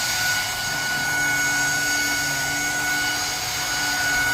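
Saker handheld mattress vacuum cleaner running steadily as it cleans the upholstered arm of a chair: a constant motor hiss with a steady high whine.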